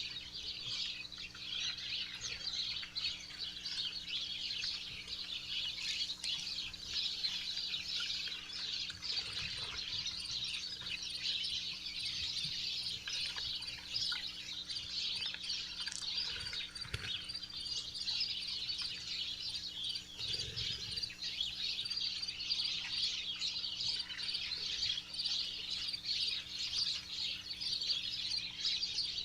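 Many small wild birds chirping continuously around a backyard feeder, a dense chorus of short high chirps, over a faint steady electrical hum.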